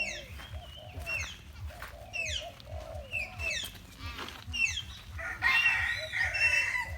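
Bird calls: a series of sharp whistles sliding downward, about one a second, then a louder burst of chattering calls about five and a half seconds in.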